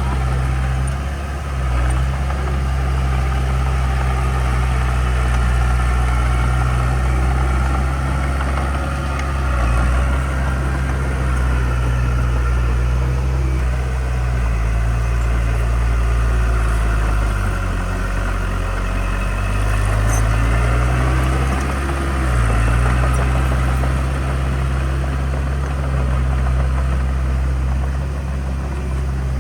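Heavy diesel engine of earthmoving equipment running steadily under load, its pitch sagging for a few seconds past the middle and then climbing back.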